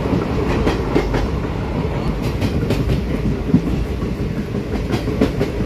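Passenger train running, heard from a carriage window: a steady low rumble with the wheels clicking over rail joints at uneven intervals.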